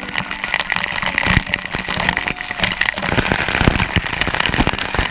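Falling water spattering close to the microphone: a dense, crackling patter.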